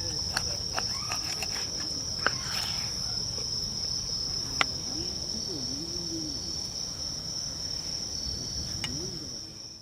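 An insect's steady high-pitched trill over a low background noise, with a few sharp crackles, the loudest about 2 and 4.5 seconds in. All of it fades out near the end.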